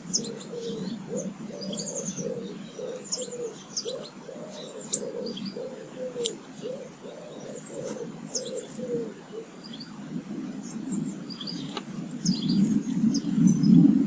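A pigeon cooing in a long run of low, evenly repeated notes that stops about two-thirds of the way through, with small songbirds chirping high over it. A louder low rumble rises near the end.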